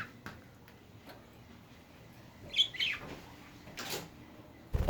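A budgie chirps briefly, a quick high warbling call about two and a half seconds in, among a few faint clicks. A short rustle follows near four seconds, and a loud thump comes right at the end.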